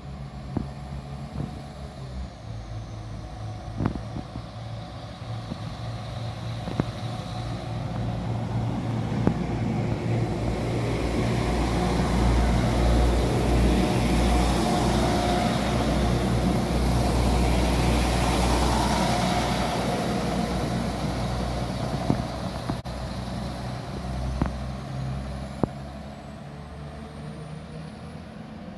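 A diesel multiple-unit passenger train runs past a station platform. Its low engine rumble and the rush of its wheels build to a peak in the middle as it goes by, then fade as it moves away, with a few sharp clicks along the way.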